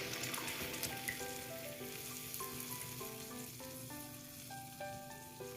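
Yogurt-and-cream chicken marinade sizzling in hot butter in a kadai just after being poured in, the sizzle slowly dying down. A soft background music melody plays under it.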